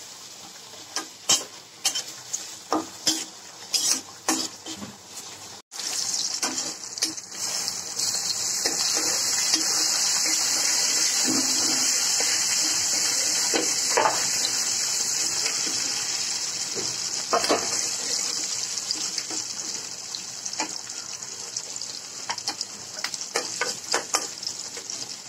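Spatula clicking and scraping against a wok as sliced onions, chillies and bay leaves are stirred. After a brief break in the sound about a quarter of the way in, a loud steady sizzle of the vegetables frying in hot oil starts and slowly fades, with further spatula scrapes, most of them near the end.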